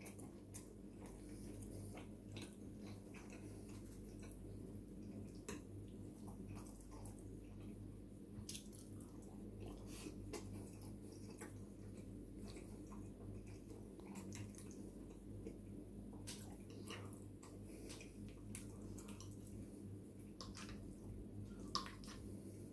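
Faint chewing and wet mouth sounds of eating ravioli in tomato sauce, with scattered soft clicks. Near the end a fork clicks sharply against the plate.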